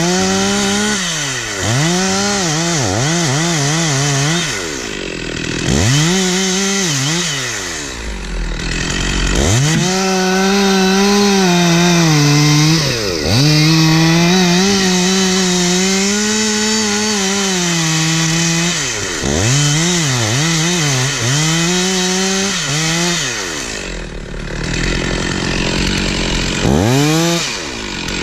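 Stihl 046 two-stroke chainsaw cutting wood at high revs, its engine note dropping away and climbing back up again and again as the throttle is let off and squeezed between cuts. It eases off near the end, then gives one last rev.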